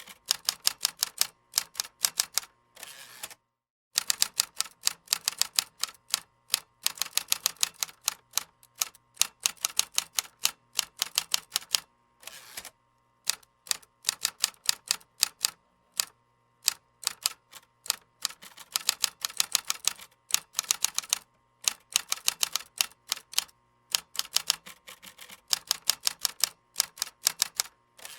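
Keyboard typing: fast runs of sharp key clicks, several per second, broken every few seconds by brief pauses.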